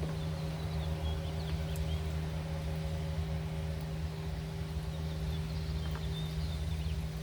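A steady low machine hum, with a few faint bird chirps and light clicks over it.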